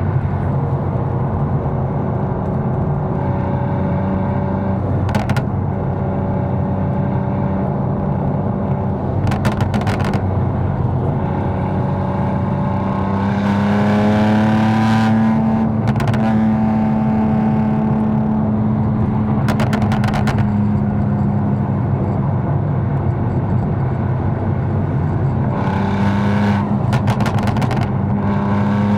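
Tuned BMW M4's twin-turbo inline-six running at cruise while driving, its drone rising in pitch as the car speeds up about halfway through and again near the end. A few short sharp clicks or knocks break in every several seconds.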